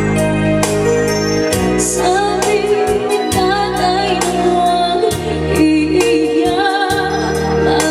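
Live band music played loud through a PA sound system: a woman singing over bass, keyboard and drums, with a steady beat.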